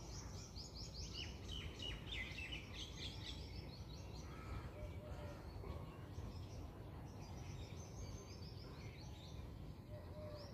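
Small birds chirping in quick twittering runs of high notes, thickest in the first few seconds and again past the middle, over a steady low background rumble.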